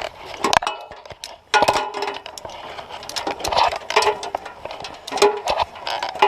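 Metal climbing hardware clinking and knocking: lanyard hooks and carabiners striking each other and the course fittings in a quick irregular series of sharp clinks, some with a short ring.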